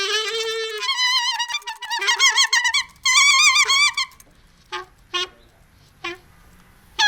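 Bird calls, warbling with a quickly wavering pitch for about four seconds, then a few short separate chirps.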